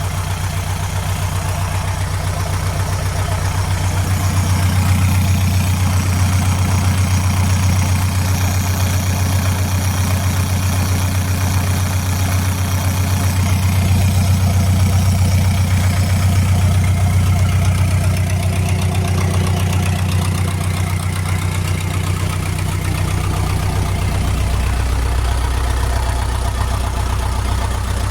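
Isuzu 4BE1 four-cylinder diesel engine idling steadily just after start-up on a test run. The level rises slightly a few seconds in, and the note drops lower a few seconds before the end.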